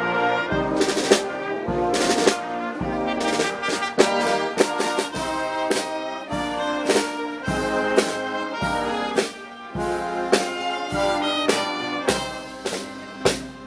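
Festival brass band playing: trumpets and trombones holding chords over regular drum and cymbal strikes.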